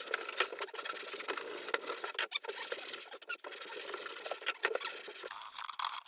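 Damp cloth rag rubbed back and forth over old wooden floorboards: a steady scratchy swishing with small clicks and knocks, easing off near the end.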